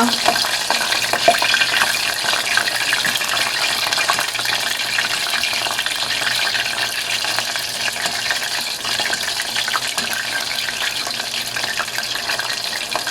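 Flour-dredged chicken drumsticks frying in hot olive oil in a pan, a steady sizzle with crackling, and a sharp tap about a second in.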